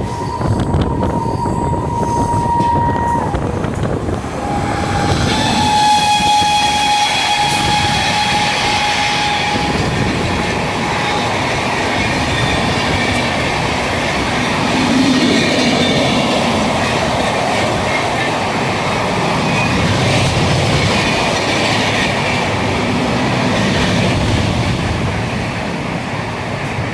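A train passing at speed, its wheels and bogies making a loud, steady rush of noise on the rails. Its horn blows twice: a short note at the start and a longer one from about four seconds in.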